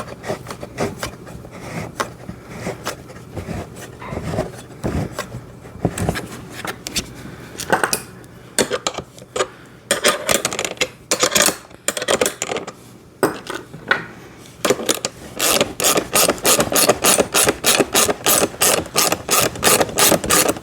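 A bolt being worked through the handlebar mount of a kids' ride-on motorcycle: scraping and rubbing with scattered knocks, then over the last few seconds a run of sharp, even clicks, about three a second.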